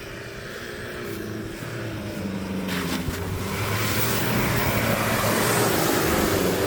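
A small tractor engine running and growing steadily louder, its pitch rising and falling, with a rushing noise joining about three seconds in.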